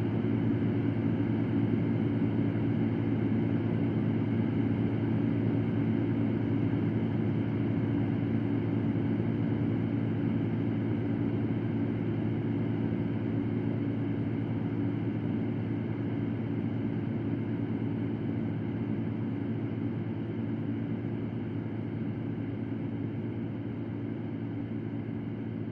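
Electric fan running steadily: a low hum under an even rush of air, slowly getting a little quieter.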